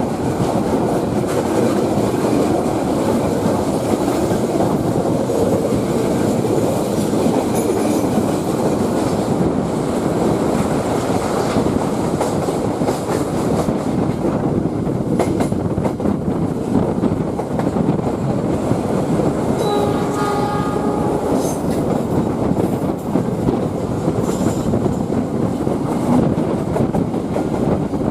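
Passenger train running on the rails, heard from on board: a steady rumble and rattle of wheels on track. About two-thirds of the way through, a horn sounds for about a second and a half.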